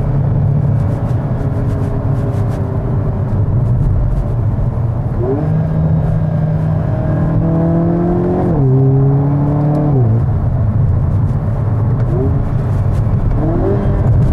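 Hyundai Kona N's turbocharged four-cylinder engine and exhaust heard from inside the cabin while driving. The note holds fairly steady, then climbs under acceleration and drops sharply at upshifts about eight and a half and ten seconds in. Short rises in revs come near the end.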